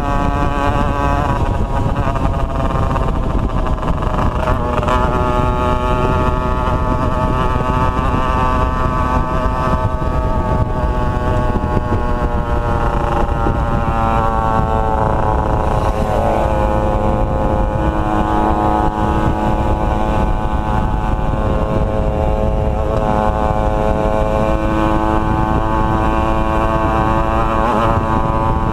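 Two-stroke motorcycle engines running on the move, their pitch rising and falling with the throttle and gear changes.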